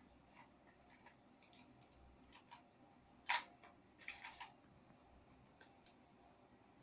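A few scattered light clicks and taps over quiet room tone, the loudest about three seconds in, a quick cluster just after, and one sharp click near the end.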